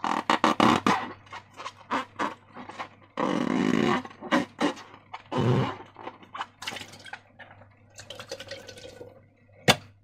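Slime being squished and stretched by hand, giving irregular wet squelches and sticky crackles, with a sharp click near the end.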